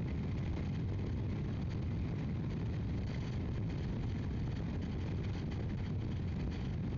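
Steady wind rush and road noise on a helmet-mounted microphone from a motorcycle riding at speed, an even low rumble that does not change.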